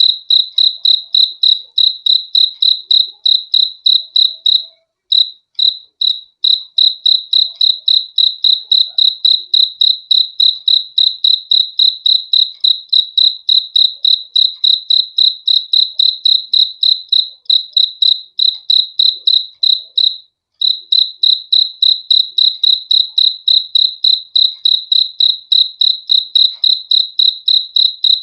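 A cricket chirping: a steady high-pitched trill pulsed in an even rhythm of about three chirps a second, breaking off briefly twice.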